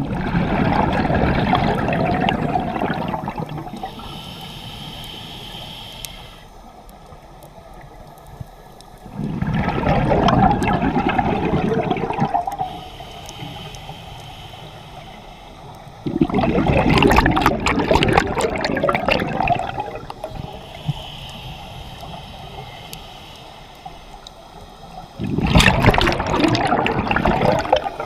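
Scuba diver breathing through a regulator underwater: four long gushes of exhaled bubbles, one about every eight seconds, with a fainter hiss of inhaling between them.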